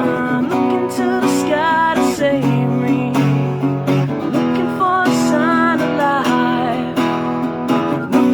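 Acoustic guitar strumming chords, with a bending melody line recurring over them every few seconds.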